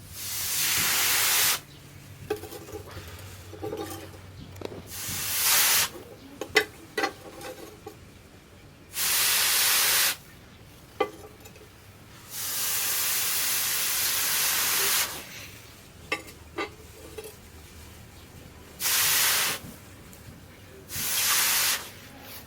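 Six separate bursts of loud hissing, each about one to two and a half seconds long and the longest near the middle, with a few sharp light clicks between them.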